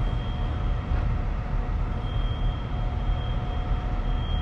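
Diesel engine of a Kenworth W900 semi truck running with a steady, deep rumble and a faint high whine that comes and goes.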